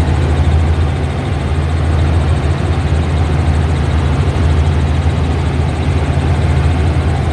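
Tour helicopter's engine and rotors running in flight, a steady, loud low drone heard from on board.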